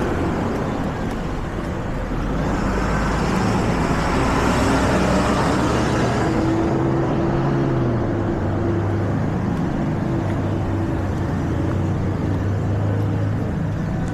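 Street traffic noise, with a vehicle engine running steadily close by from about halfway through.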